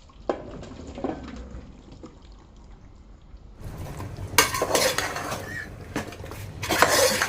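A spoon scraping and clanking against a cooking pot as chopped bottle gourd is stirred into a thick chicken masala. It is quieter at first, then comes in two loud bursts of scraping in the second half.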